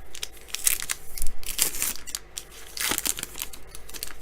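Foil trading-card pack wrapper being torn open and crinkled, in several short crackling bursts.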